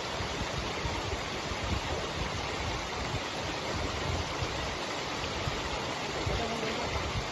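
Steady rush of flowing water, an even hiss with a low uneven rumble underneath.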